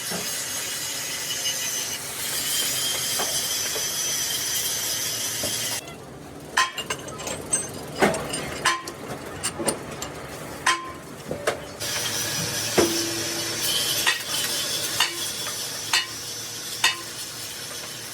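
Sharp hammer blows on steel sheet, each ringing briefly, roughly one a second, with a steady hiss under them for the first six seconds and again from about twelve seconds on.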